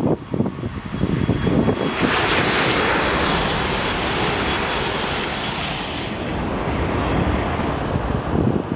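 White Renfe electric passenger train passing: a rushing hiss of wheels and air that swells about two seconds in and fades away over the following few seconds. Wind buffets the microphone throughout.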